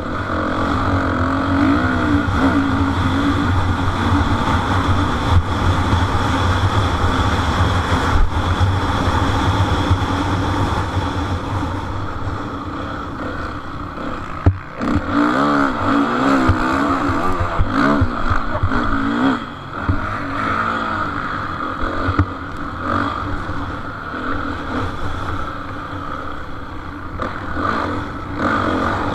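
Motocross motorcycle engines running hard as the bikes race, revving up and down through the gears. About halfway through, an engine's pitch rises and falls several times in quick succession.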